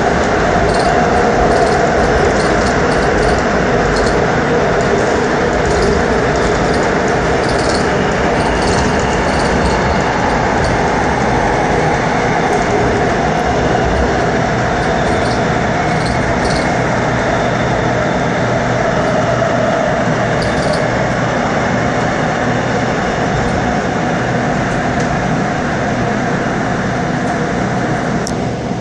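Airport Railroad (AREX) train running steadily through a tunnel: a continuous loud rumble of wheels on rails and running gear.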